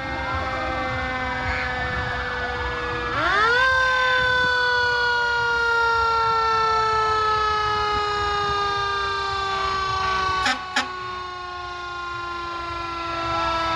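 Fire truck sirens: a mechanical siren winds up sharply about three seconds in, then slowly coasts down in pitch, while other sirens wail up and down behind it. Two short loud blasts sound near the end.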